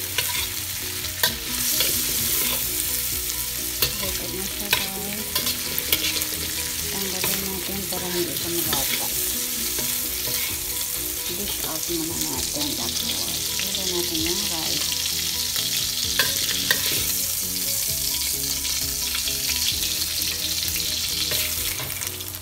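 Prawns, chopped carrot and garlic sizzling in oil in a wok, with a steady hiss, while a metal spatula stirs and scrapes them and clicks sharply against the pan now and then.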